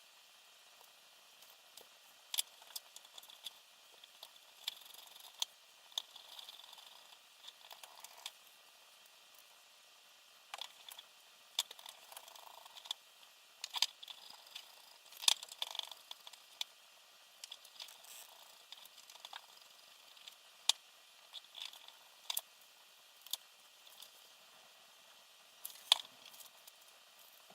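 Small parts and packaging being handled during a quadcopter build: irregular sharp clicks and taps mixed with soft rustling, with no steady rhythm.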